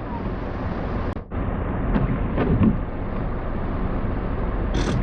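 Steady road and engine noise inside a moving car's cabin, with a brief dip in level about a second in.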